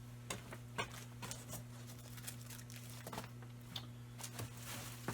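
Faint scattered clicks and light rustles, like objects being handled, over a steady low electrical hum.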